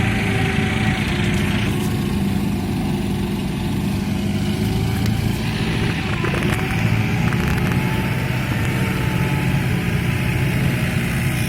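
Eicher 551 4WD tractor's diesel engine running steadily under load as it tows two Mahindra 595 Turbo tractors.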